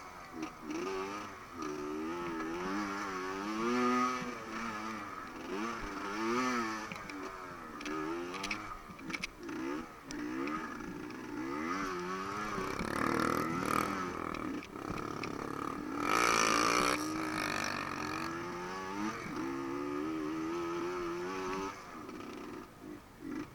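Off-road motorcycle engine revving up and down repeatedly as the bike is ridden, with a louder, noisier burst about two-thirds of the way through.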